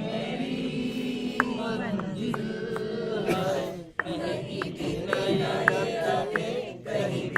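A group of people singing or chanting together, with sharp clicks now and then.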